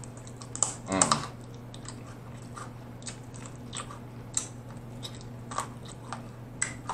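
Close-miked chewing of crispy fried chicken, with scattered wet mouth clicks and small crunches, and a short hum of the voice about a second in.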